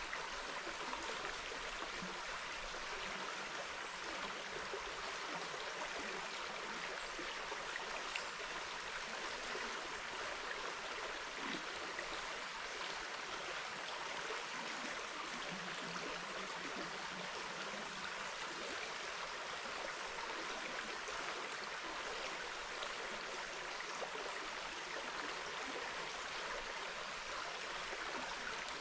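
River water running steadily, an even rushing hiss with no change in level.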